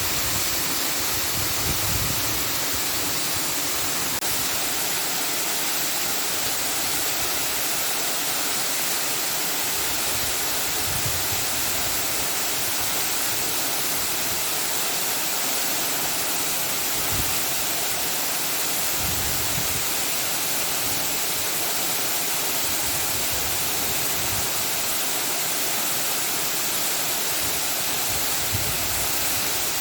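Steady, even rushing noise with no pauses or distinct events.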